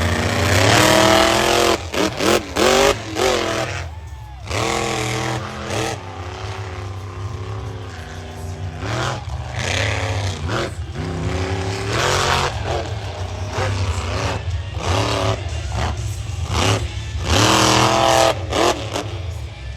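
Monster truck big-block V8 engines racing flat out, their pitch rising and falling as the drivers go on and off the throttle, with several sudden lifts and drops in loudness.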